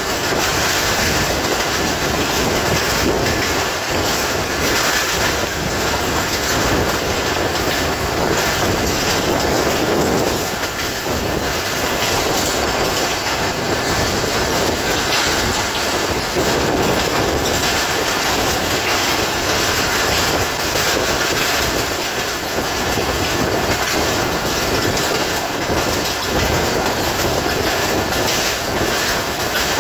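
Pakistan Railways passenger train running at speed, heard from an open coach window: a steady, loud rumble and clatter of the coaches' wheels on the track.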